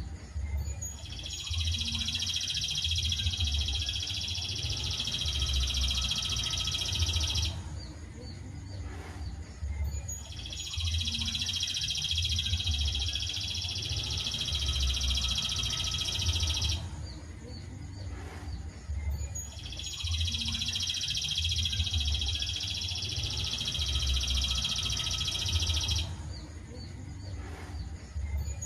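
A songbird's long, rapid, high trill, heard as a looped recording made for song-training (masteran). Each phrase lasts about six and a half seconds and repeats identically three times, with pauses of about three seconds between them, over a low rumble.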